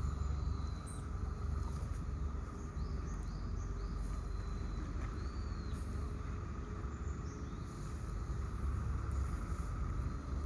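Outdoor park ambience: a steady low rumble and hum, with a small bird giving several short, thin, high chirps in the first half.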